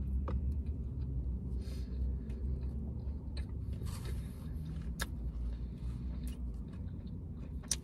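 Chewing falafel with the mouth close to the microphone: scattered wet clicks and smacks, and a short crackly noise about four seconds in, over a steady low rumble.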